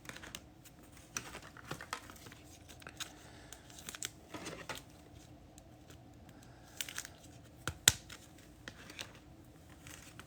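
Trading cards and a foil card-pack wrapper being handled: scattered light clicks, slides and crinkles, with a sharper click about eight seconds in.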